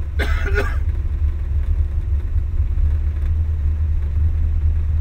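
GU Nissan Patrol's engine idling with a steady low rumble, heard from inside the cabin, with a brief sharp noise near the start.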